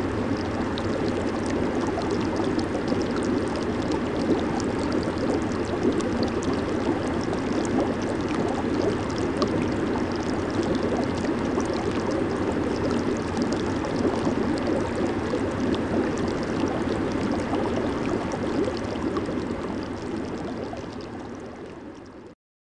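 Hot tub (jacuzzi) jets steadily bubbling and churning the water, fading out near the end and then stopping.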